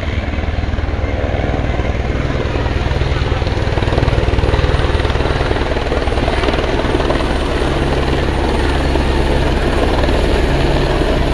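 Helicopter overhead, its rotor beating fast and steady with the engine running loud, as it circles the landing site again and again, struggling to land.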